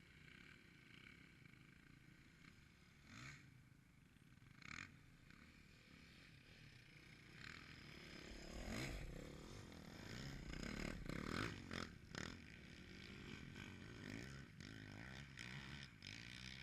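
Faint dirt bike engines revving, the pitch rising and falling, growing louder in the second half. Two short knocks come about three and five seconds in.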